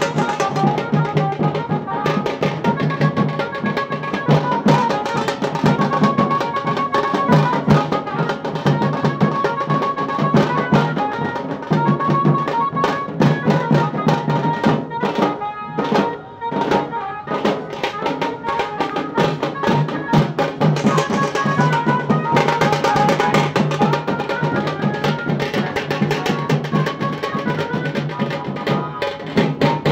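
Tasa drums played with sticks in a fast, dense rhythm, with a melody line over the drumming. About halfway through the rhythm thins briefly to a few sharp, separate strokes, then the full drumming resumes.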